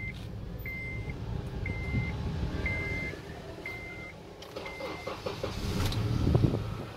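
Dashboard warning chime beeping about once a second, six times, then the 2005 Honda Odyssey's 2.4-litre VTEC engine cranks and starts about six seconds in.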